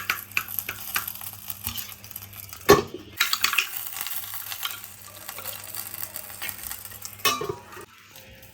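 Ghee sizzling and crackling on hot charcoal as the chicken is smoked, with a sharp knock about a third of the way in and another near the end.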